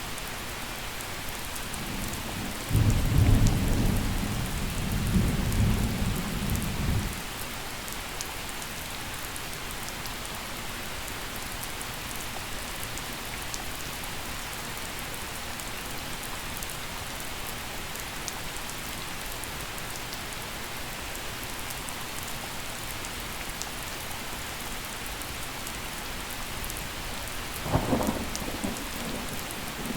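Steady gentle rain falling, with a low rumble of thunder that swells a few seconds in and rolls on for about four seconds. A second, shorter and sharper burst of thunder comes near the end.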